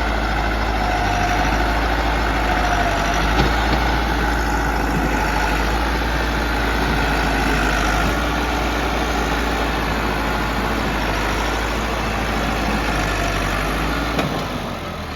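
Massey Ferguson 385 tractor's three-cylinder diesel engine running steadily, fading near the end.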